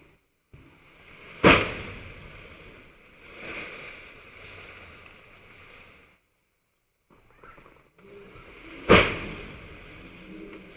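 Two sharp impacts about seven and a half seconds apart, each trailing off into a fading noise.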